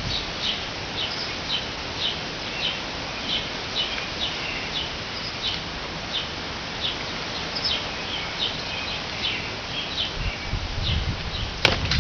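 A bird chirping over and over, short high chirps about two a second, over a steady outdoor hiss. A few low thumps and one sharp click come near the end.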